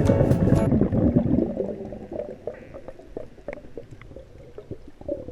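Background music that stops about a second in, followed by quieter water gurgling and bubbling with scattered sharp clicks.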